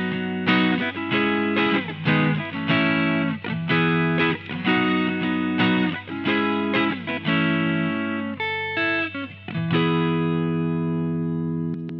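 Electric guitar played through an amplifier, strumming a rhythmic run of chords about every half second. Near the end a final chord is left ringing out. A steady low hum sits underneath.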